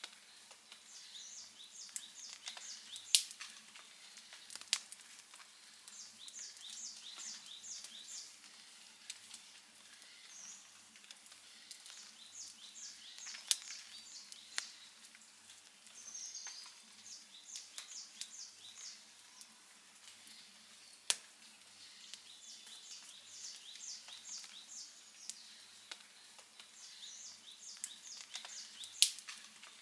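Wood fire crackling, with occasional sharp pops, a few standing out loudly. Behind it, a high chirping comes in short runs of four or five notes every couple of seconds.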